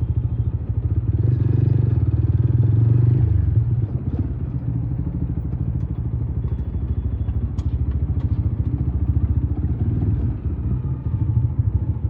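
Motorcycle engine running steadily under way, its low even pulsing swelling slightly in the first few seconds, with a few light clicks and rattles about two-thirds of the way through.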